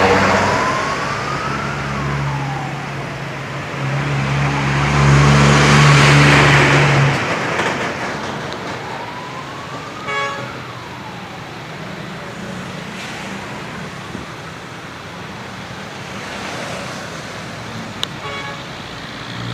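Trucks in a convoy running past on the road; one passes loudly about 4 to 7 seconds in, then the engine noise eases to a steady traffic hum. A wailing tone rises and falls twice, once near the start and again about 9 seconds in, and there is a single sharp click near the end.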